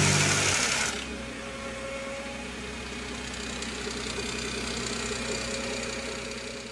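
Freshly overhauled supercharged Audi 3.0 TFSI V6 idling steadily. Background music ends about a second in.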